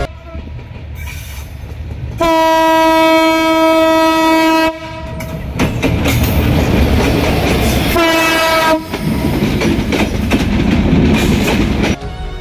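ALCO diesel locomotive sounding its horn twice: one long steady blast of about two and a half seconds, then a short blast about three seconds later. Under and between the blasts runs the rumble and clatter of the moving train.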